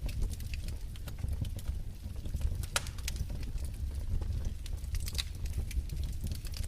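Wood fire crackling in a fireplace: irregular sharp pops and snaps over a low steady rumble, with one louder crack about three seconds in.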